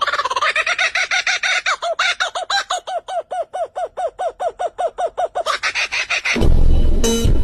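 A bird calling in a fast, even series of short rising-and-falling notes, about five a second. Near the end a louder, different sound with a low rumble and steady tones cuts in.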